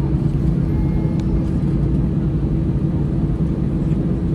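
Airbus A320 cabin noise: the steady low rumble of its CFM56 engines and airflow, with a steady hum running through it.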